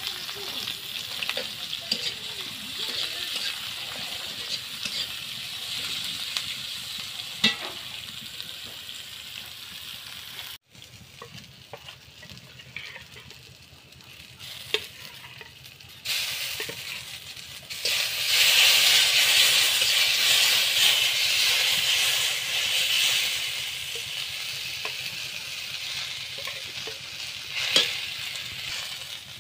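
Sliced onions frying in oil in a metal wok, sizzling steadily, with a metal spatula scraping and clicking against the pan. The sizzle drops away suddenly about a third of the way in, then comes back louder a little past halfway before easing off.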